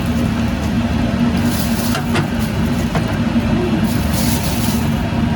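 Steady engine noise with a constant low hum, as of a motor vehicle running.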